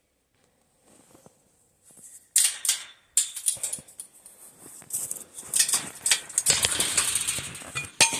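Crunching and rustling of footsteps moving through snow and brush, beginning after about two seconds of near silence, with a brief break about three seconds in.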